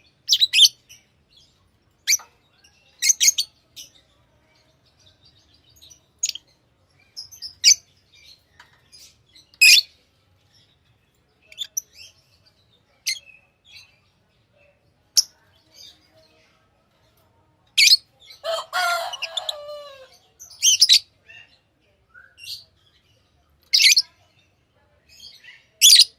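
Pet lovebirds chirping: sharp, short high chirps every second or two, with a longer burst of chattering near the end.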